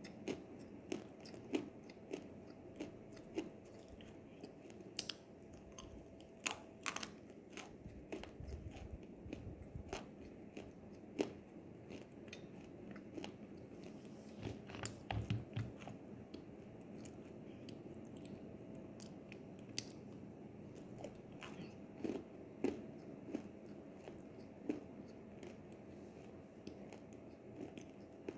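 Close-up chewing of crunchy edible clay (nzu): irregular crisp crunches and wet mouth clicks, with a few louder bites now and then.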